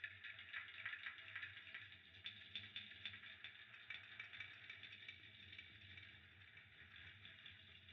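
Faint crackling and hissing of a fireplace fire, with many small irregular pops, over a low steady hum.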